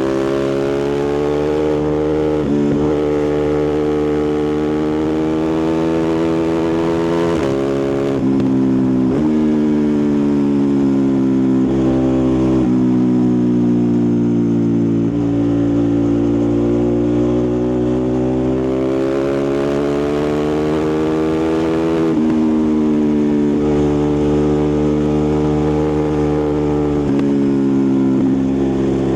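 Ducati Multistrada 1260 Pikes Peak's 1262 cc L-twin engine and exhaust running steadily, its pitch rising and falling as the throttle opens and closes, with several sudden drops in pitch.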